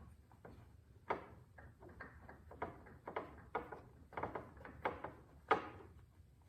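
Irregular light clicks and knocks from hand tools on a motorcycle bolt, as it is run down snug by hand before torquing.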